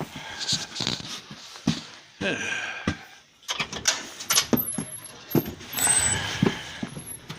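A door being handled: a series of knocks and clicks with a few short squeaks.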